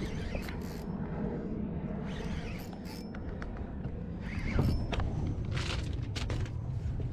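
Fishing reel and rod being worked during a fight with a big jack crevalle: scattered clicks and creaks, busier near the end, over a low steady rumble.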